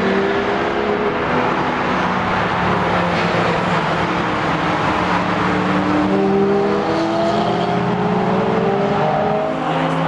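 Track cars running at speed on a race circuit, several engines overlapping with their pitch rising and falling.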